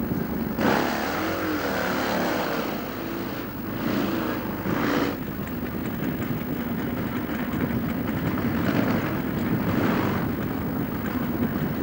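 Drag-racing motorcycle engine revved in short bursts with rising and falling pitch, then running on continuously with more revs near the end.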